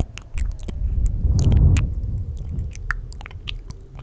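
Close-miked ASMR mouth sounds: many quick wet clicks and chewing noises, with a low rumble that swells up and fades about a second and a half in.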